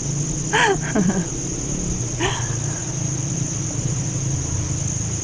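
Insects, cricket-like, trilling in one steady high-pitched buzz, with a low steady hum of breeze or flowing water beneath. A person's voice is heard briefly about half a second to a second in.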